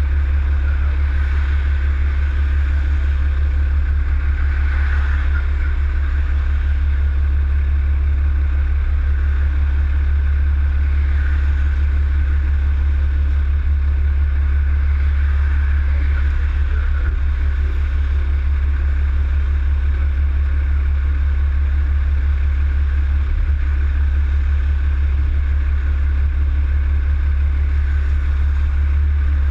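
Steady low drone of a vehicle engine running, with an even haze of road noise over it.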